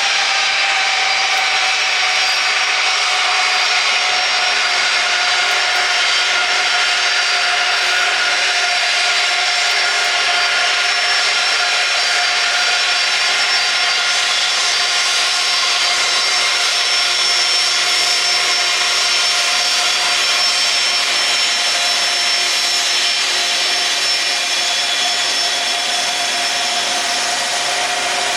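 Jet engines of an Ilyushin Il-76 freighter running, a loud steady whine over a rush of jet noise. The main tone dips slightly in pitch at the start, then holds steady, and the sound eases a little near the end.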